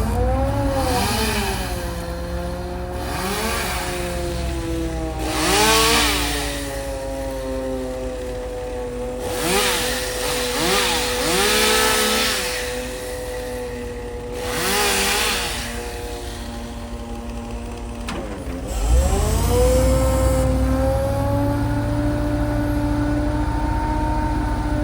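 Chainsaw revving up and falling back in repeated short bursts, about six times, over an engine running steadily underneath. Near the end the engine drops briefly and comes back up.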